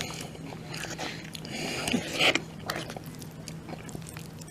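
A person chewing a mouthful of spicy salmon poke bowl close to the microphone: irregular biting and chewing sounds, over a steady low hum.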